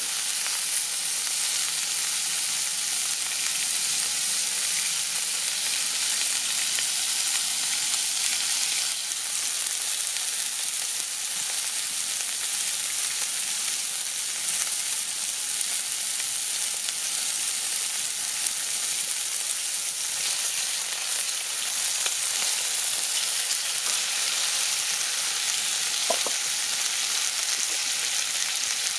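Food frying in a pan over a campfire, with a steady sizzle that keeps on without a break.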